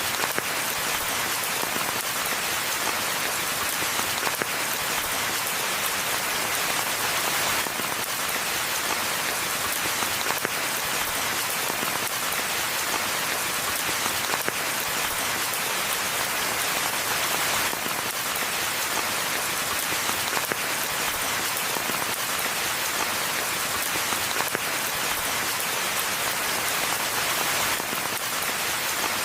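Steady rainfall on a forest floor and foliage, an even hiss of many drops with no change in intensity.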